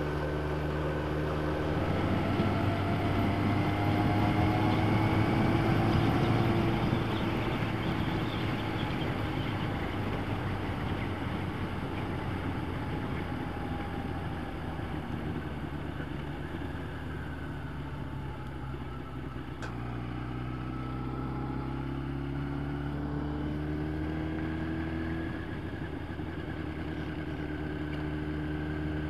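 Yamaha motorcycle engine running under way on the road. Its note climbs and grows louder from about two to seven seconds in as the bike accelerates, settles to a steady cruise, then climbs again in the last third.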